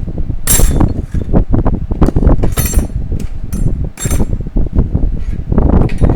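Steel clutch plates and other metal parts of a 4L60E automatic transmission clinking and knocking as they are pulled out and handled, with several sharper metallic clinks among irregular duller knocks.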